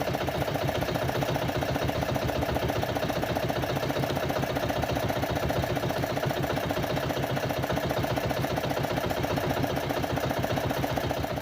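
Small fishing boat's engine running steadily with a fast, even putter.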